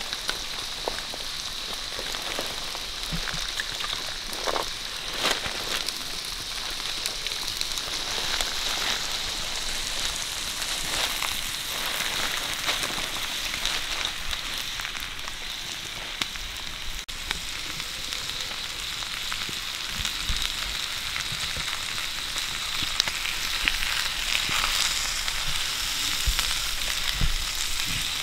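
Pig intestines sizzling on a stone slab heated over a wood fire: a steady frying hiss with scattered small crackles.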